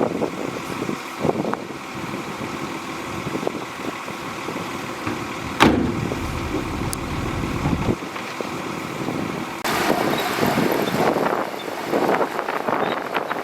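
Shantui DH17C2 bulldozer's diesel engine running, with scattered clanks and one sharp knock about five and a half seconds in, followed by a heavier rumble for a couple of seconds. A brighter hiss joins near the ten-second mark.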